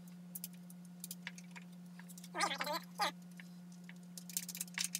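Scattered light clicks and taps of small metal hardware being handled while a miter saw is fastened to its stand's mounting rails, with a brief voice-like sound in the middle. A steady low hum runs underneath.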